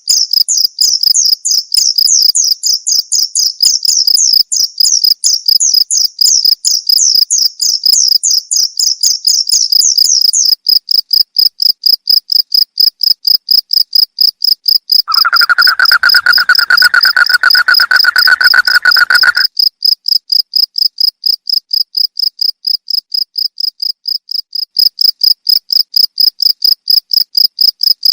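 Crickets chirping in a steady train of rapid, evenly spaced chirps. For the first ten seconds a second, higher chirping layer runs over it. A lower, steady trill joins for about four seconds past the middle.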